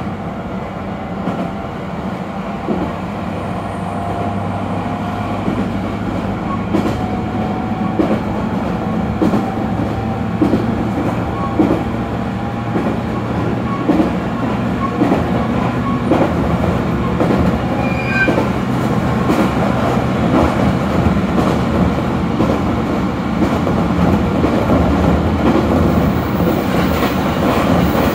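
Electric local train running along the track, heard from inside the passenger car: a steady rumble with regular clickety-clack from the rail joints about once a second, growing slowly louder.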